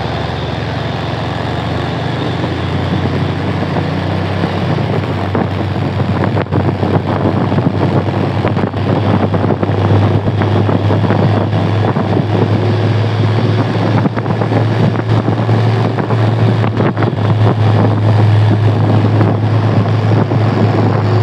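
Motor vehicle engine and road noise on the move: a steady low engine drone over a rushing noise. It grows louder and stronger about halfway through.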